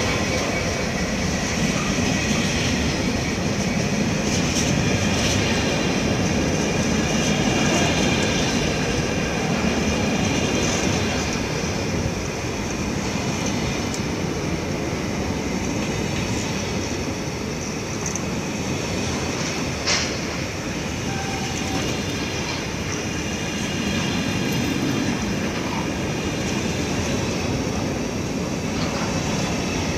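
A train running through the station, a steady rumble with faint high whining tones throughout, and one sharp click about twenty seconds in.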